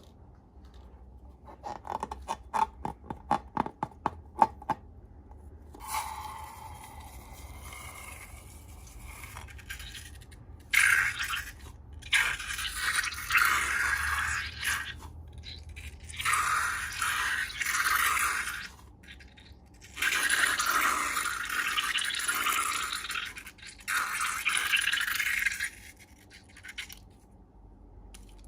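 Close-up slime-making handling sounds: a quick run of sharp clicks, a short wavering tone, then several long stretches of noisy scraping, each a few seconds long.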